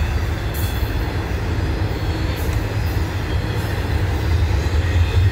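CN intermodal freight train rolling past, its container-laden well cars making a steady low rumble of wheels on rail, with a few brief high clicks.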